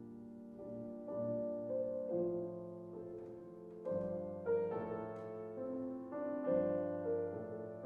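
Solo piano playing classical music: chords and melody notes struck in turn and left to ring, with the strongest attacks in the second half.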